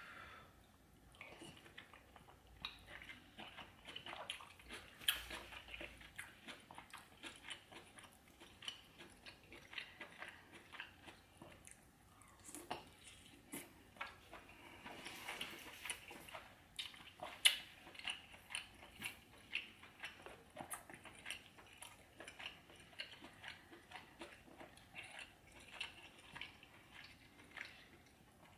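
Close-miked chewing and wet mouth sounds of someone eating king crab leg meat in butter sauce: irregular small clicks and smacks, with one sharper click about 17 seconds in.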